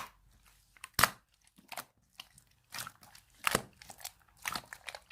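Two-layer slime being pressed and squeezed by hand, giving short sharp pops and clicks at irregular intervals, about one a second.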